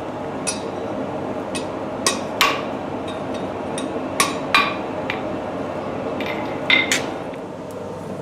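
Light, irregular metal-on-metal taps and clinks from smithing tools on steel, about eight in all, the loudest around two, four and a half and seven seconds in, over a steady rushing background noise.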